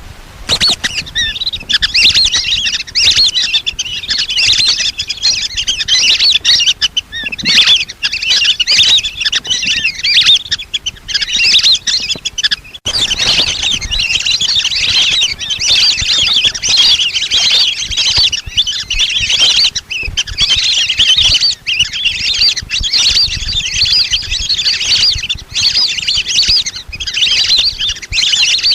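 A flock of lesser whistling ducks calling nonstop, a dense overlapping chatter of shrill whistles with a brief lull about halfway through.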